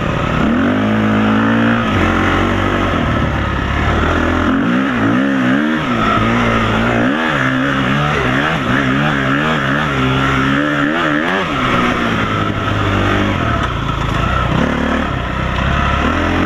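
Off-road dirt bike engine revving up and down while riding over rough ground, its pitch wavering quickly, with wind rushing over the microphone.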